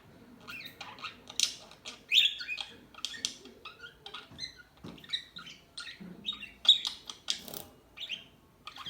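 Budgerigars chattering: an irregular, busy stream of short, squeaky chirps and squawks, with a couple of louder calls about two seconds in and near seven seconds.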